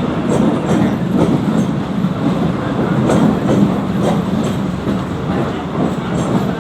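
Mumbai suburban local train (electric multiple unit) running: a steady loud rumble with irregular clicks.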